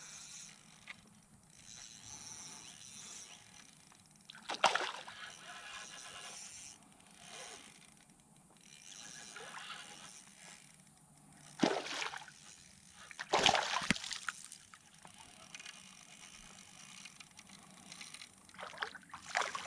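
Hooked smallmouth bass splashing in shallow creek water as it is fought and landed: a handful of short, separate splashes, one a few seconds in, a cluster around the middle and another near the end.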